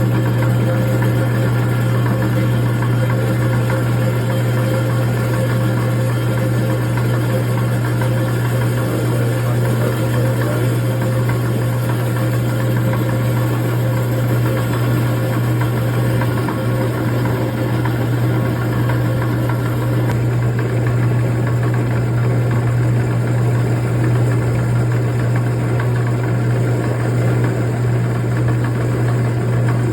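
Rock saw running steadily, cutting through a clamped slab of agate/jasper, with a constant low motor hum.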